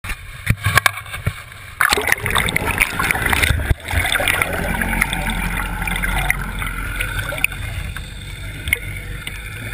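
Water rushing and splashing around a GoPro held out from a boat on a fishing net, over a steady low rumble. A few sharp knocks come in the first two seconds.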